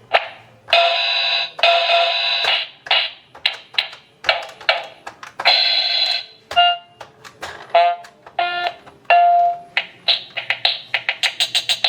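Toy electronic organ keyboard sounding its built-in tones and effects: a string of buzzy held notes and short beeps, then a quick drum-like beat near the end. The toy is making sound again after its repair.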